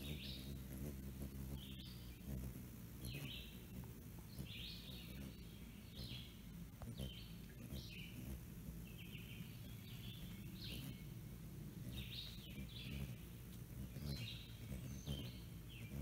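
Short, high bird chirps repeated irregularly, about one every second, over a low steady background rumble.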